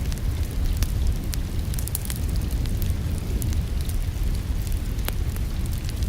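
Wood fire crackling in a fireplace: sharp pops every second or so over a low, steady rumble.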